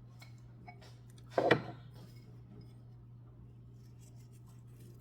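A single short knock or clatter of a kitchen utensil about one and a half seconds in, with faint small clicks and a steady low hum behind it.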